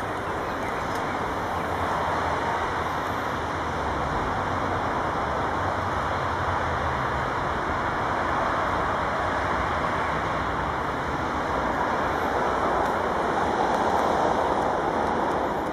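Passenger train coaches rolling slowly along the track and away: a steady rumble of wheels on rails, without clear knocks or horn.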